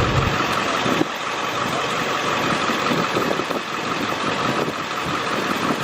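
An engine running steadily at idle, with a steady high whine over the rumble.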